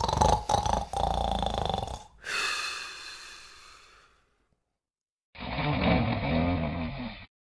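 Dog snoring in its sleep: a loud, fluttering snore, then a long breathy exhale that fades away, a pause, and another snore about five and a half seconds in, each cut off abruptly.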